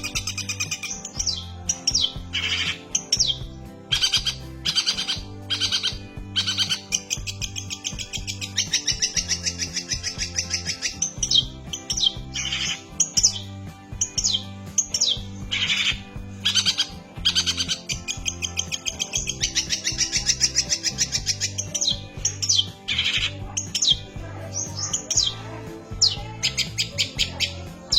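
Long-tailed shrike (cendet) singing a fast, varied, chattering song of rapid trills and sharp calls without pause, over background music with a repeating bass line.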